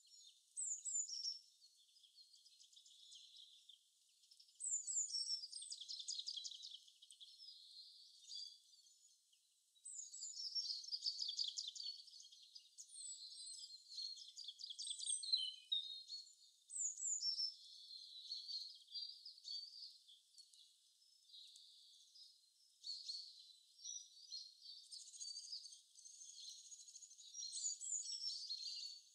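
Birds chirping and trilling in spells: short falling chirps and fast rattling trills. The sound is thin and high-pitched, with no low sound beneath it.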